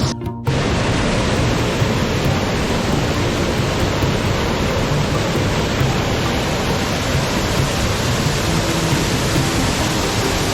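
Mountain stream water rushing, a steady, even roar. It drops out briefly just after the start, then runs on unchanged.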